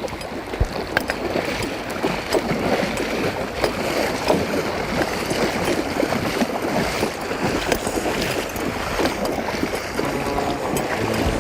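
Running river water splashing and gurgling, with sloshing as a rainbow trout is held in the current to revive it before release.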